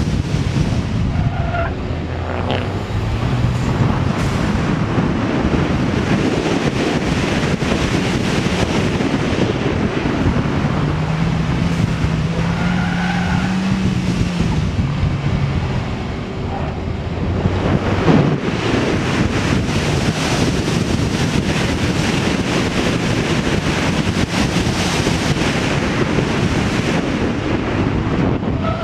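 Small street car's engine run hard on an autocross course, its pitch climbing and dropping again and again as it accelerates, shifts and slows for corners, over a steady rush of wind and tyre noise.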